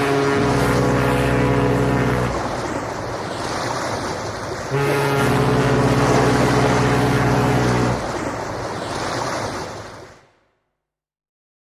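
Ship's horn sounding two long, deep blasts of about three seconds each over the steady wash of sea waves. The waves cut off suddenly near the end.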